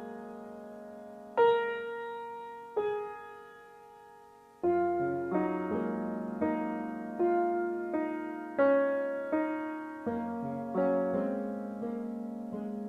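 Background piano music: slow, sparse notes that ring out and fade, picking up into a gentle, steady run of notes after about five seconds.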